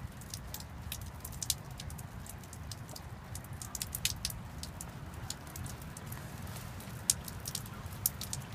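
Water dripping and pattering after rain, in many irregular light ticks over a low steady rumble.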